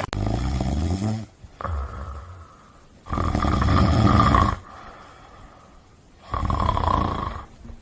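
A dog snoring loudly, about four long rattling snores with pauses between them; the third is the loudest.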